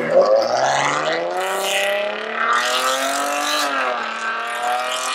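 A truck's engine revving hard as it pulls away, its pitch climbing for about three and a half seconds, dropping briefly, then holding steady. A harsh hiss comes and goes over the engine.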